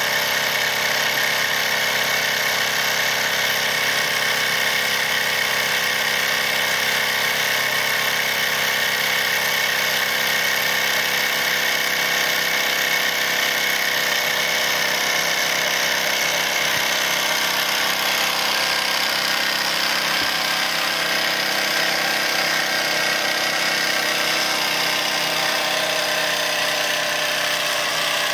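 Wilesco D101 toy steam engine running steadily, its double-acting single cylinder driving a small line shaft with a model grinder and circular saw. The sound holds steady, with no change in speed.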